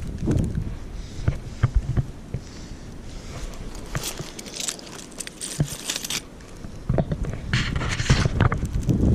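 Footsteps and scraping in deep snow, in uneven crunches with two longer stretches about four and seven-and-a-half seconds in. Wind rumbles on the microphone near the start and end.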